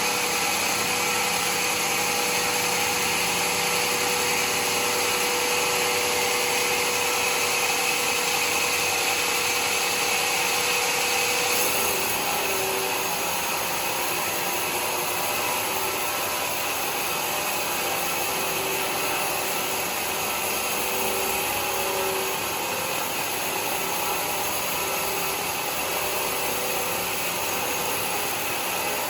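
Homemade sawmill running and sawing mahogany wood, a steady power-saw noise with a faint whine. About twelve seconds in it gets slightly quieter and the pitch of the whine shifts.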